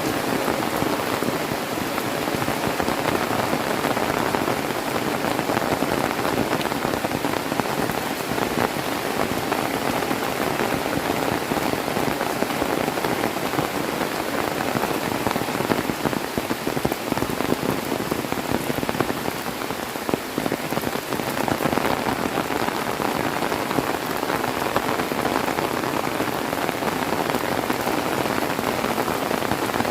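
Heavy tropical rain pouring down in a steady, dense downpour, easing very slightly for a moment about twenty seconds in.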